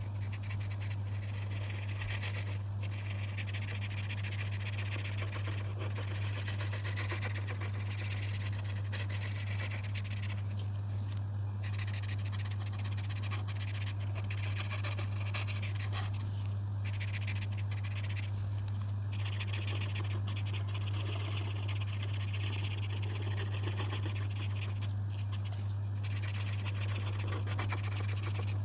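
Colouring strokes scratching across paper in runs of a few seconds, with short pauses between them, over a steady low hum.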